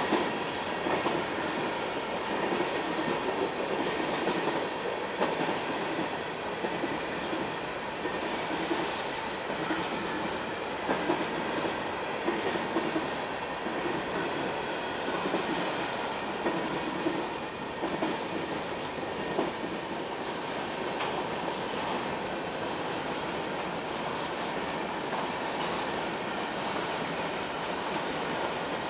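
A train's cars rolling steadily past, wheels clicking over the rail joints.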